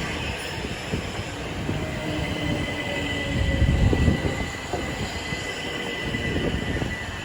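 Train running past on the rails: a heavy, uneven rumble and clatter of wheels, with a thin steady high whine over it from about two seconds in.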